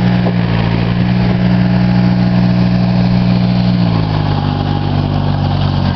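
Orchard tractor's diesel engine running steadily, with its speed dropping slightly about four seconds in.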